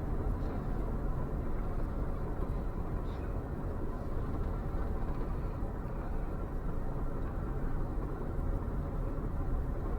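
Steady low rumble of a slow-moving vehicle's engine and road noise.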